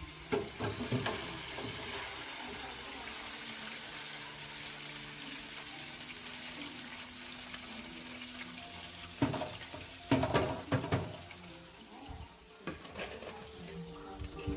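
Liquid pouring steadily for about nine seconds, then several clanks and knocks of cookware.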